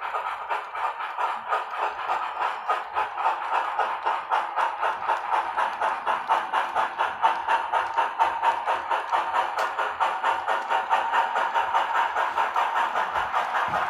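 HO scale steam locomotive's DCC sound decoder chuffing in a steady rhythm of about four beats a second, played through the model's small speaker with no deep bass.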